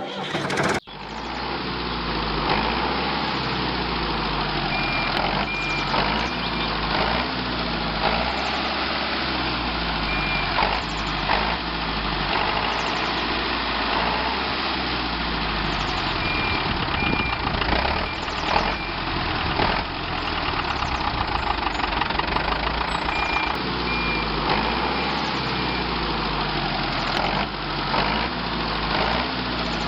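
Small motor of a DIY miniature tractor running steadily, its low note wavering up and down, with clusters of short high beeps now and then.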